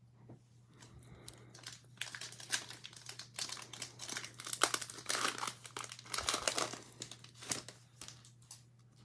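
Foil trading-card pack wrapper crinkling and tearing as it is ripped open by hand, a dense crackle of many small sharp clicks that starts about two seconds in and dies down near the end.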